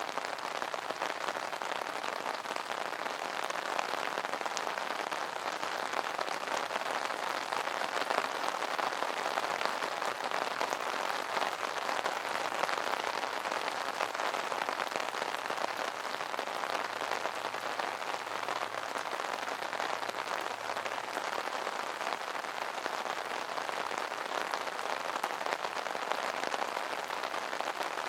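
Steady rain pattering on an umbrella canopy, a dense even hiss of many small drop impacts.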